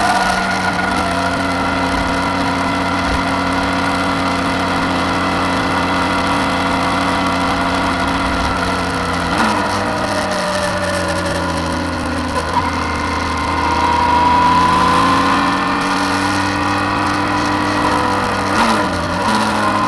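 Suzuki V-Strom 650 XT's V-twin engine running at road speed, with wind noise. The engine note changes about halfway through, then rises for a couple of seconds as it picks up speed, and dips briefly near the end.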